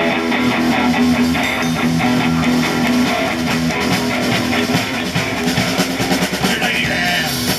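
A band playing an upbeat rock intro on guitar with a drum kit keeping a steady beat.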